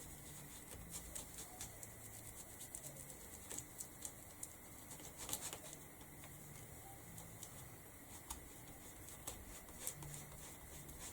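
Foam pad dabbing ink through a stencil onto a canvas: a faint, irregular run of light taps.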